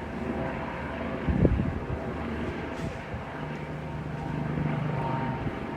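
An engine running steadily, with wind on the microphone and a single thump about a second and a half in; a steady low hum joins about three and a half seconds in and fades near the end.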